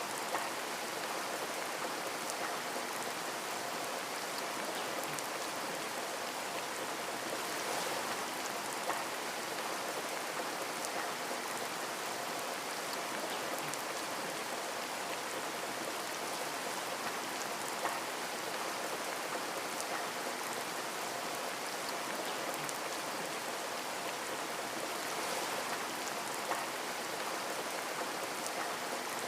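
Steady rain falling and pattering on a window, an even hiss with a few separate drops ticking now and then.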